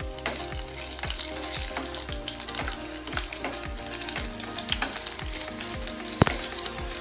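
Onion pieces sautéing in oil with crushed ginger and garlic in a non-stick frying pan: a steady sizzle, with light scrapes and clicks as a wooden spatula stirs them, and one sharper knock about six seconds in.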